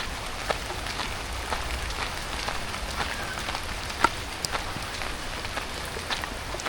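Steady rain falling, with scattered sharp ticks of drops striking close by; one louder tick about four seconds in.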